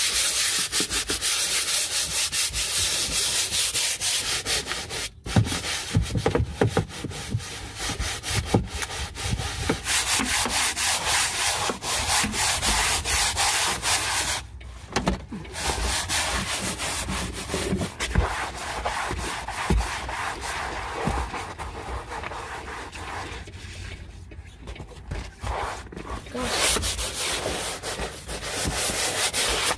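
Scrubbing a wet, rough-surfaced truck cab floor by hand: fast scratchy back-and-forth strokes, broken by a few short pauses.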